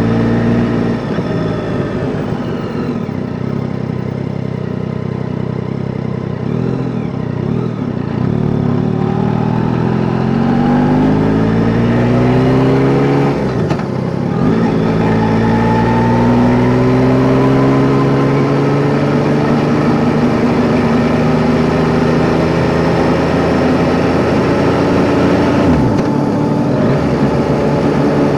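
Yamaha Tracer 9 GT's inline three-cylinder engine pulling under way, its pitch climbing slowly, dropping sharply at a gear change a little before the middle, then climbing again and holding fairly steady.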